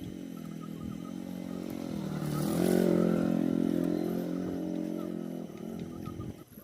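A small engine running, revving up about two seconds in and holding there, then winding down and stopping near the end.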